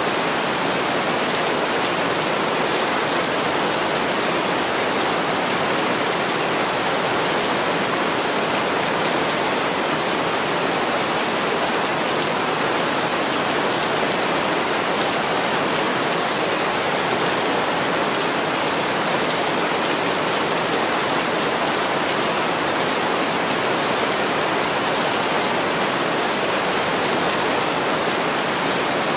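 Heavy rain pouring steadily on window glass, an even, unbroken hiss with no single drops or crackles standing out.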